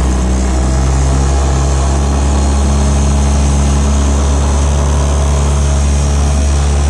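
Small 2 hp two-stroke outboard motor running steadily at a constant high speed under way, its pitch holding level after revving up just before.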